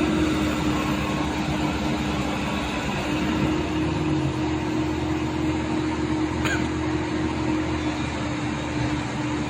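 Heavy machinery engine, likely an excavator's, running steadily with a constant hum.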